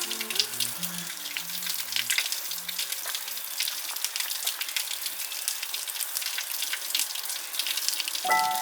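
Falling water: many small drops splashing steadily on a surface, like rain. Soft background music notes fade out over the first few seconds, and music starts again near the end.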